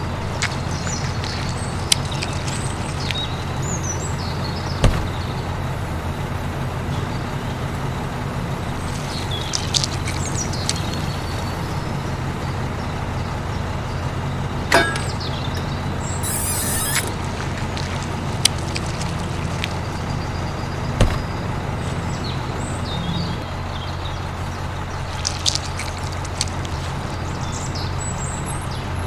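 A small motor running steadily with a constant hum, with a few sharp clicks and knocks scattered through, and faint birds chirping a couple of times.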